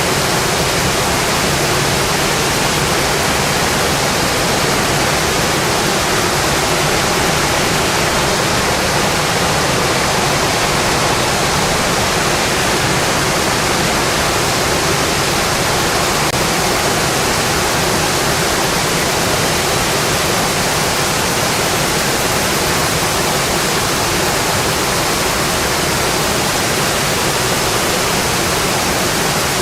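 Steady, heavy rain falling on a metal roof: a loud, even hiss with no breaks.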